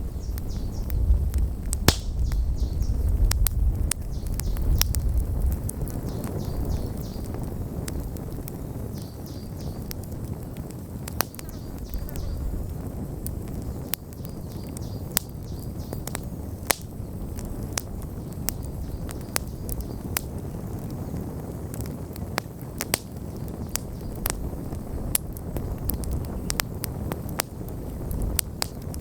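Wood campfire burning, crackling with frequent sharp pops and snaps. A low wind rumble runs through the first few seconds.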